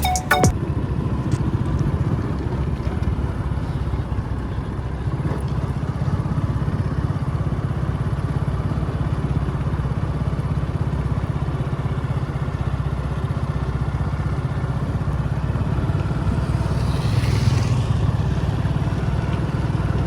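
Mahindra 475 tractor's diesel engine running steadily, with a brief higher hiss over it near the end.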